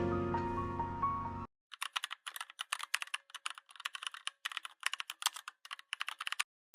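Background music stops about a second and a half in, then a computer keyboard is typed on in rapid, uneven clicks, thin with no low end, until just before the end.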